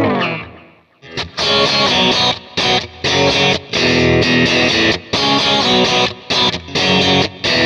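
Overdriven electric guitar through a Kemper profile of a 1966 Vox AC30: a held, wavering chord is choked off, and after a brief silence about a second in come choppy strummed chords with short stops between them, in a crunchy, chiming tone.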